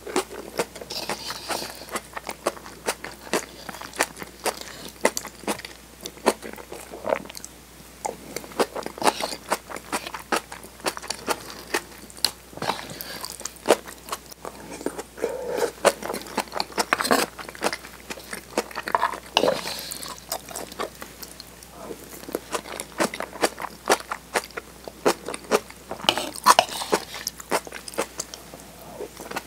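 Close-miked chewing and wet mouth sounds of someone eating spoonfuls of chilled tofu with kimchi and soft-boiled egg: a steady run of small clicks and smacks.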